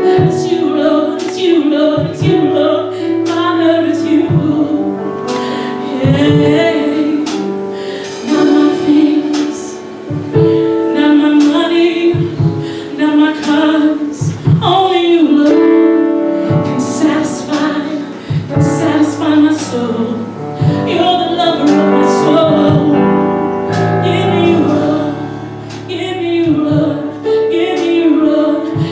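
Live gospel worship song: singing led mainly by female voices, over band accompaniment with regular drum hits.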